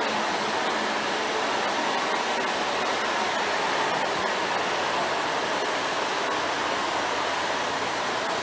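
Passenger multiple-unit train passing alongside the platform: a steady rushing noise of wheels and carriages going by, even in loudness throughout, with a faint steady low tone under it.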